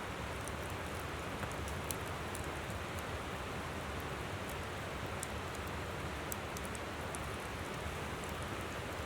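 Steady rush of a flowing river, with a wood campfire crackling over it in sharp, irregularly scattered pops.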